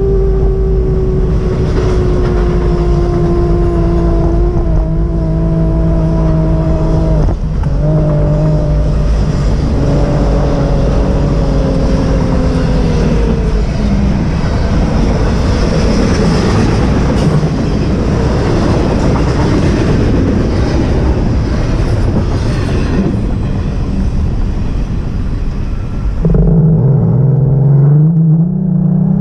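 A motor vehicle running, with a loud, steady rumble and an engine note that slowly falls in pitch over the first dozen seconds. Near the end the sound changes abruptly to a lower engine note that climbs as the vehicle speeds up.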